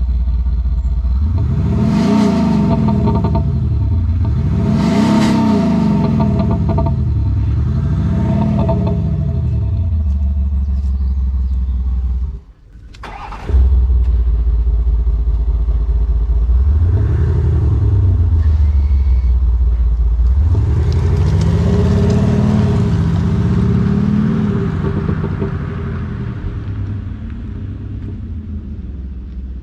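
Land Rover Defender diesel engine with an aftermarket exhaust and speaker sound system, revved in short blips from idle: three quick revs, a brief drop-out, then more revs with a longer held rev near the end.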